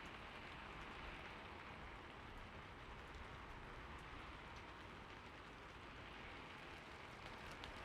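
Faint, steady rain: an even hiss of falling rain with a few soft drop ticks, a recorded rain bed for sleep.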